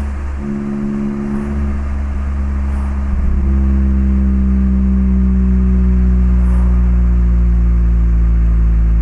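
Mazda MX-5 ND Roadster's 1.5-litre four-cylinder running through an HKS LEGAMAX Sports aftermarket muffler while driving. The note dips briefly in the first half second and changes about three seconds in. It then holds a steady cruising drone that drifts slightly lower in pitch.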